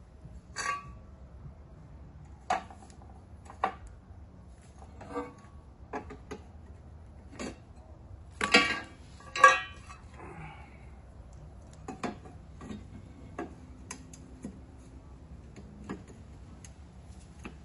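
Irregular metallic clinks and clanks of hand tools and mower parts being handled during the spindle repair, a few seconds apart, with two louder clanks a little past halfway.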